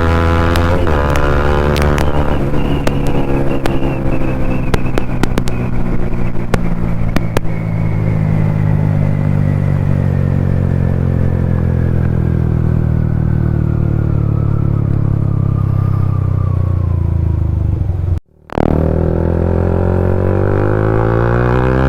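Bajaj Pulsar NS200's single-cylinder engine through a full-system Akrapovic aftermarket exhaust, heard while riding. The revs fall slowly and steadily for most of the time, with sharp crackling clicks through the first several seconds. After a brief cut in the sound near the end, the revs climb again.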